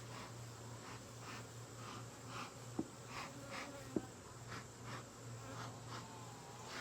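Honeybees buzzing around an opened hive, with single bees passing close by in humming tones that drift up and down in pitch; the colony is disturbed and flying around the beekeeper's head. Two sharp clicks sound about three and four seconds in.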